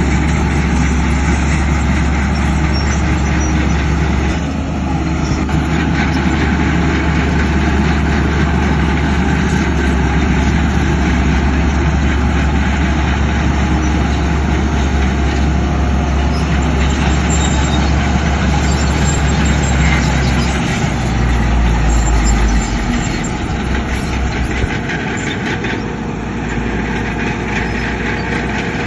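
Heavy earthmoving machinery running: a loud, steady diesel drone with a dense mechanical din over it. The low engine note shifts about two-thirds of the way in and drops a few seconds later.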